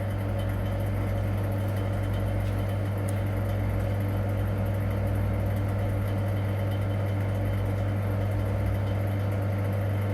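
Vacuum pump of an air-conditioning recharge station running with a steady hum, drawing a vacuum on the service hoses to check them for leaks.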